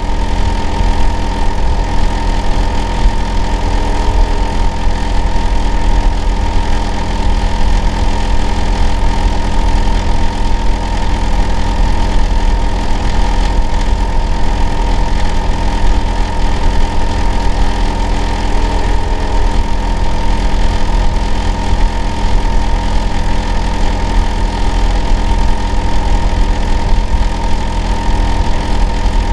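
Hitachi air-conditioner outdoor unit running continuously: a loud, steady low hum with a set of steady tones over it, including a clear whine, unchanging throughout. It is the kind of noise the neighbour calls abnormal and too loud to sleep through.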